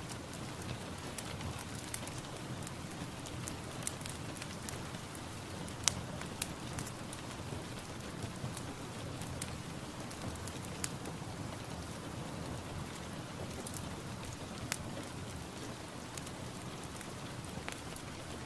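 Steady rain falling, with individual drops landing as scattered sharp ticks at irregular moments.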